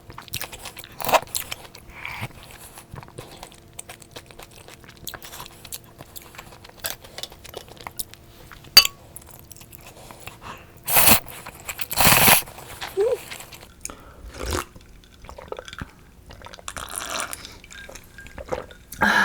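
Close-miked eating: crunching bites into crisp deep-fried food, with chewing in between. Two louder crunches come about eleven and twelve seconds in, and a single sharp click comes a little before them.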